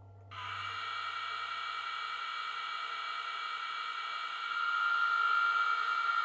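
Trix Class 77 model diesel locomotive's onboard sound system playing its diesel engine start-up sound through its small speaker: it comes in suddenly just after the start and runs steadily, growing louder about four and a half seconds in.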